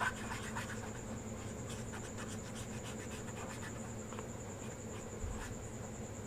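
Faint scratchy strokes of colouring on paper, over a steady high-pitched whine, with one soft knock about five seconds in.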